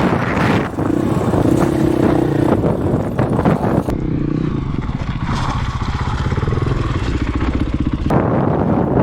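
Husqvarna 501 dirt bike's single-cylinder four-stroke engine running as it is ridden, its pitch shifting with the throttle, with wind buffeting the bare microphone.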